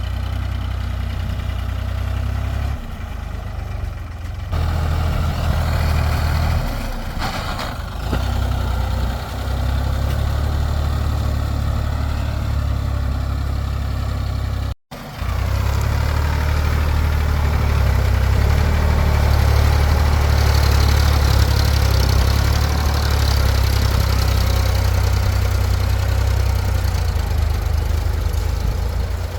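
Sonalika tractor's diesel engine running steadily, with a brief break about halfway through.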